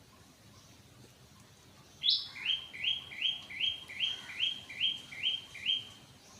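A bird calling: starting about two seconds in, a run of about ten quick, rising chirps, roughly three a second, the first one higher and louder.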